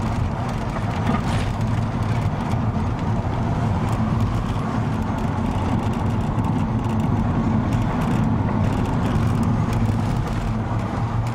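Steady rumble of a moving car heard from inside the cabin: engine and tyre noise on the road.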